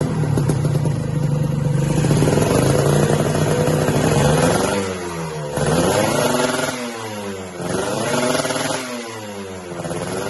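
Kawasaki Ninja 150 RR two-stroke single-cylinder engine breathing through a Franz R2 aftermarket exhaust. It idles steadily, then from about five seconds in it is revved in several blips, its pitch rising and falling each time.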